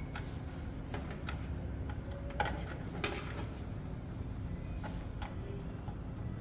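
Scattered small clicks and knocks of cable connectors and computer parts being handled in a desktop PC during reassembly, the loudest about two and a half seconds in, over a steady low hum.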